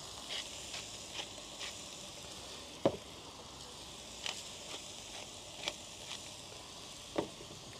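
Diced chicken, peppers, onions and mushrooms sizzling on an electric teppanyaki griddle plate: a steady frying hiss with a few short sharp pops and crackles, the loudest about three seconds in.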